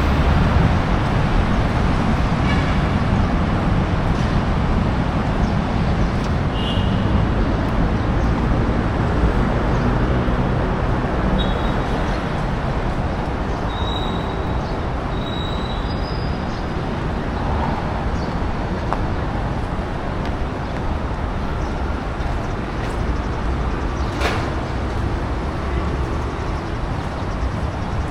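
Steady road traffic noise: a continuous rumble and hiss of passing vehicles, with a single sharp click about three quarters of the way through.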